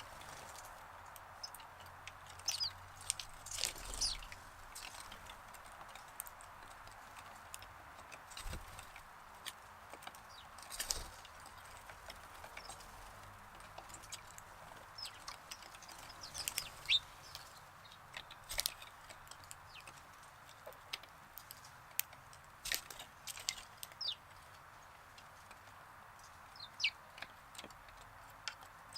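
Sparrows chirping in short, scattered calls, in a few clusters, over a steady background hiss.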